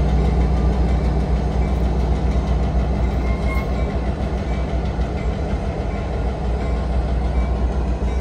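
Diesel locomotive engines rumbling steadily as a passenger train of Nippon Sharyo bilevel gallery cars rolls slowly past, the steel wheels running on the rails.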